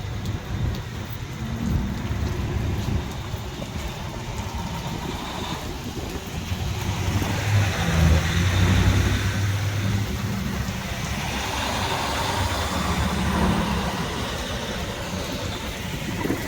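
Traffic passing on a wet road: engine hum and tyre hiss swell and fade as vehicles go by, the loudest pass about halfway through and another a few seconds later.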